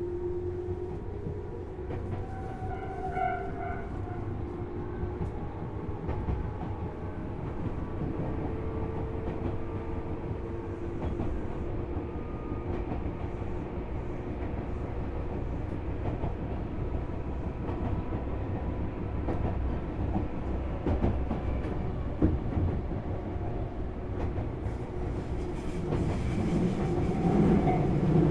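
Tobu Railway Series 6050 electric train running, heard from inside motor car MOHA6172: a steady low rumble of wheels on rail with a faint hum and scattered clicks over the rail joints, growing louder near the end.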